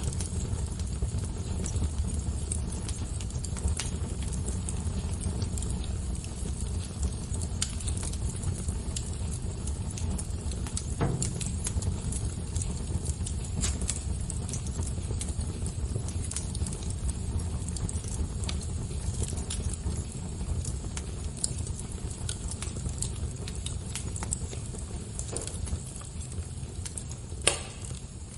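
Fire crackling: a steady low rumble with scattered sharp pops and snaps, two of them louder, about eleven seconds in and near the end.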